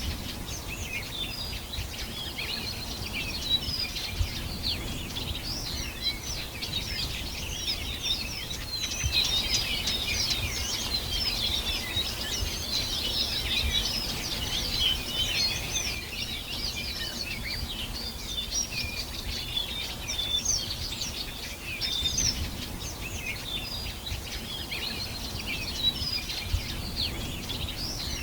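Many birds chirping and trilling at once, a dense overlapping chorus of short high calls, with a low rumble of wind or distant noise beneath.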